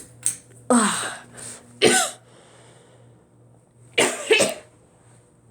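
A person coughing several times in two bouts: two coughs about a second in, then a double cough near the end.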